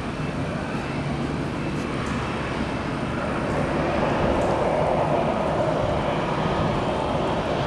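Jet airliner engines running: a steady rushing noise that grows a little louder about halfway through.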